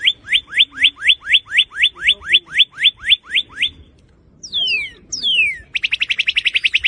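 Northern cardinal singing: a run of about fifteen quick upslurred notes, about four a second, then two long downslurred whistles, and a very fast trill near the end.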